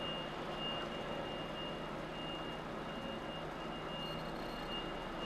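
HGV reversing alarm beeping repeatedly at a steady, high pitch over the low, steady running of the truck's diesel engine as the truck reverses slowly.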